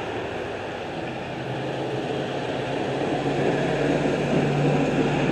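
A motor vehicle's engine running, with a low hum that grows louder over the last couple of seconds as it approaches.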